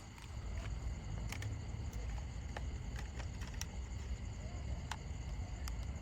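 Scattered light clicks and taps, about ten of them at uneven intervals, over a steady low rumble and a faint high hum.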